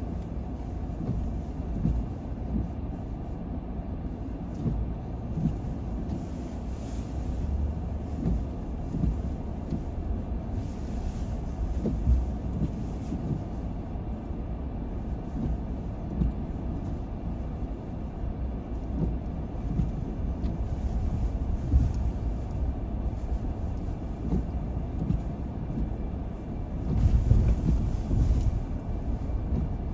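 A car driving along the road: a steady low rumble of engine and tyres, with scattered small knocks from the road surface. The rumble swells louder for a couple of seconds near the end.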